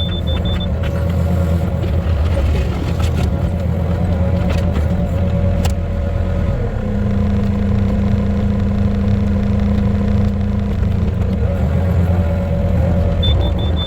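An engine running steadily at a constant speed, a low rumble with a few faint clicks.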